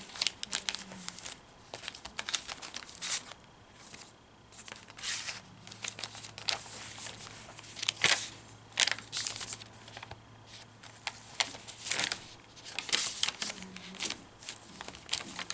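Paper pages and inserts of a handmade junk journal rustling and crinkling as they are handled, turned and unfolded, in a string of short rustles.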